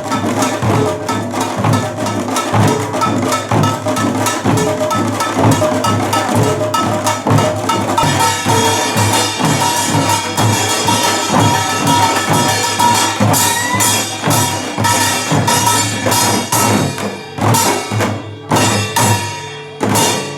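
Korean pungmul percussion ensemble playing a fast beat: small gongs clanging with a ringing metallic tone over drum strokes. Near the end the beat breaks into a few spaced strokes and stops.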